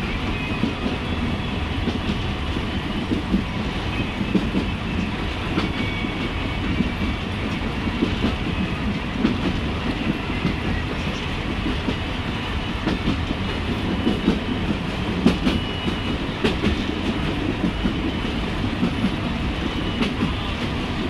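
Steady low rumble and rattle of a moving vehicle, with a few faint, brief high-pitched squeals.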